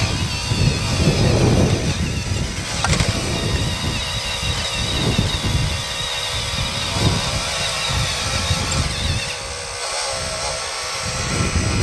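Wind buffeting the microphone in gusts, over the steady high whine of a 1/12 scale RC hydraulic excavator's hydraulic pump as it crawls over rocks, with a single click about three seconds in.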